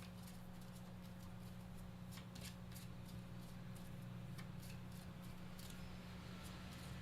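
Oracle cards being shuffled and handled, a scatter of faint, quick card flicks and slides, over a steady low electrical hum.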